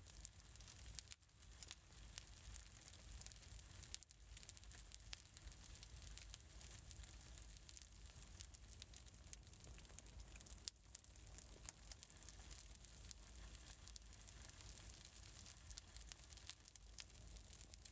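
Faint fireplace crackling: a steady soft hiss with many small, sharp pops and snaps at irregular moments.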